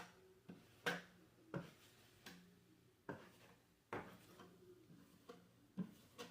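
Faint, irregular light taps and short scrapes, about one every half second to second, the kind a drywall knife makes working joint compound over a patch.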